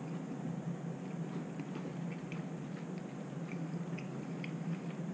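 A person chewing a smoked chicken wing: faint, scattered wet clicks and smacks over a steady low hum.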